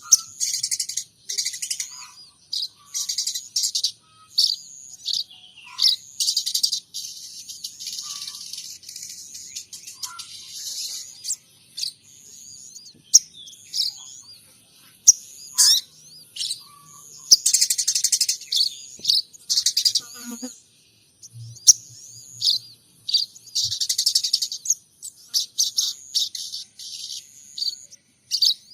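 Sogon trotol songbird singing a long run of high, rapid chirps and trills in clusters with short pauses, delivering imitated munia and sparrow calls.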